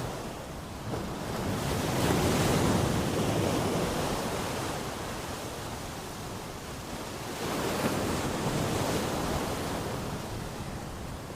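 Sea waves breaking and washing in, in two swells: one builds about a second in and slowly fades, a second rises about seven and a half seconds in and fades toward the end.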